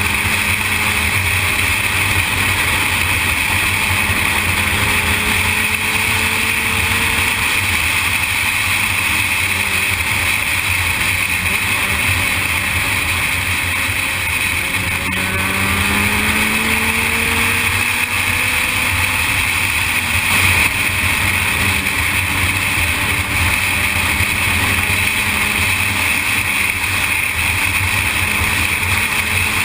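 Sportbike riding at speed: a steady rush of wind noise over the microphone with the engine's drone underneath. The engine note rises briefly about halfway through.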